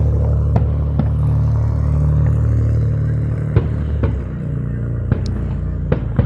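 Fireworks popping: a handful of sharp separate cracks over a continuous low rumble, which eases off about two-thirds of the way through.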